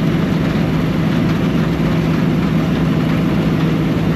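Combine harvester running steadily while harvesting wheat: a constant engine hum under an even rush of machinery noise.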